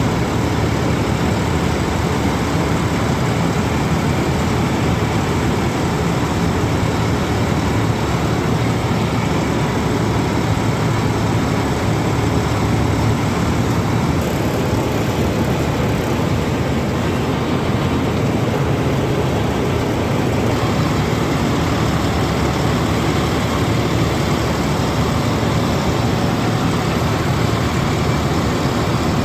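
John Deere combine harvester's diesel engine running steadily while harvesting paddy, an even drone with no change in pitch or level.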